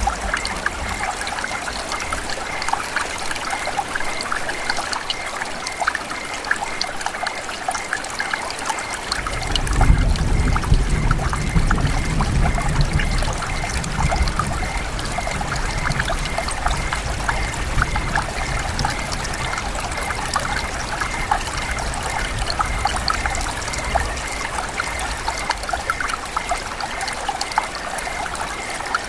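Steady rain falling, a dense patter of countless drops with trickling water. About nine seconds in a low rumble swells up, then fades away over the next several seconds.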